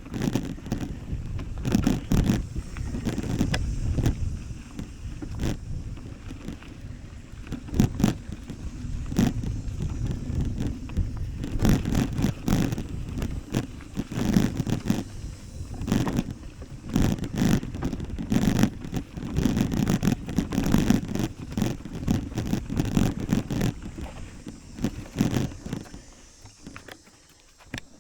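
A bicycle in motion, heard from a camera riding along with it: a steady low rumble with wind on the microphone and frequent sharp knocks and rattles as it goes over bumps. It fades away near the end.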